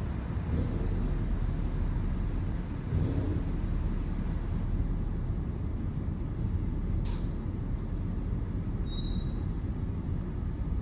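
Brushless automatic car wash running, heard from inside the car's cabin as a steady low rumble of its machinery and water sprayers. There is a single sharp click about seven seconds in.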